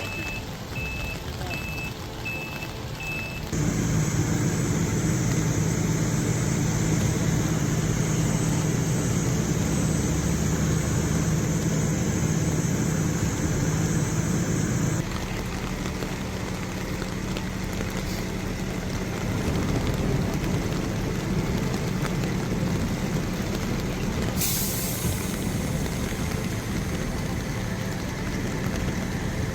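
Heavy vehicle engines running, with a reversing alarm beeping evenly for the first few seconds. The sound changes abruptly twice, to a louder engine hum and then a quieter one. A short hiss comes near the end.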